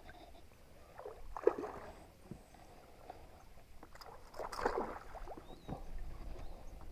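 Water splashing and sloshing around a kayak, in two short bursts: one about a second in and a louder one about four and a half seconds in.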